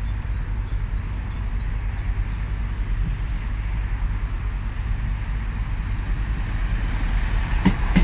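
Steady low rumble of diesel trains idling at the platform, with a run of short high chirps in the first two seconds or so.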